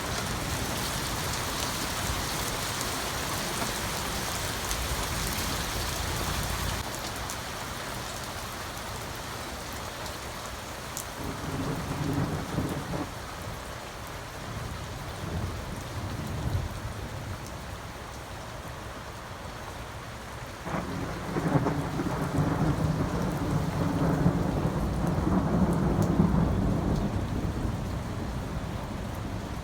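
Steady rain falling, heavier for the first several seconds. A short rumble of thunder comes near the middle, then a longer, louder rumble of thunder lasting several seconds in the last third.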